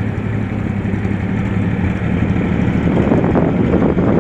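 The straight-six engine of a 1949 two-ton dump truck running steadily, getting louder and rougher about three seconds in.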